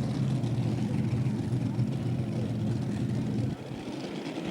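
Engine of a pulling tractor running loud and steady, its level dropping off suddenly about three and a half seconds in.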